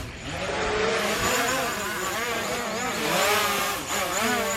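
Engine sound effects from a racing video game, pitch rising and falling as the engines rev.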